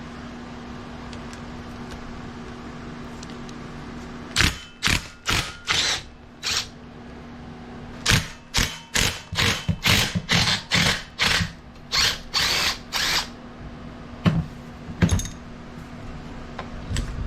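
A tool turning fasteners on a small OHV engine in short, sharp bursts: four spaced bursts about four seconds in, then about a dozen in quick succession, with a faint steady hum underneath.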